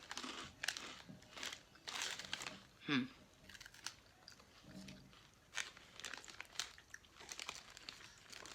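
Irregular crinkling and rustling of a plastic snack bag being handled, with a brief falling vocal sound about three seconds in.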